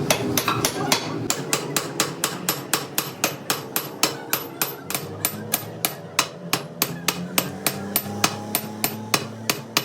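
Hand hammer striking steadily and rapidly, about four blows a second.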